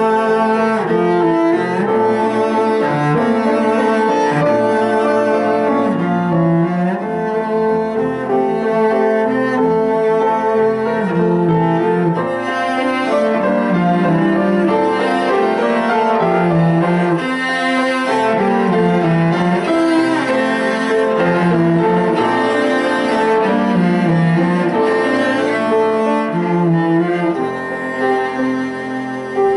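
A cello playing a slow, lyrical melody of long bowed notes.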